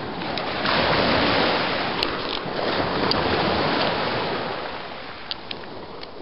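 Ocean wave breaking and washing up the shore, swelling about a second in and dying away near the end.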